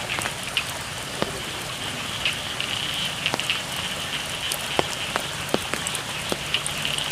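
Steady rain falling on rice paddies, with sharp drops landing close by every second or so. A high, wavering chorus of frogs runs underneath.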